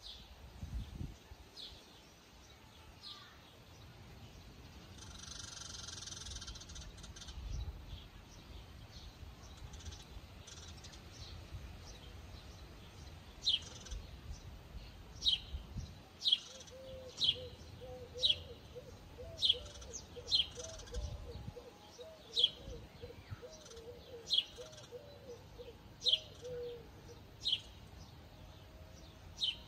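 A small bird chirping outdoors: short, sharp chirps repeated about once a second from about halfway through, over a low background rumble.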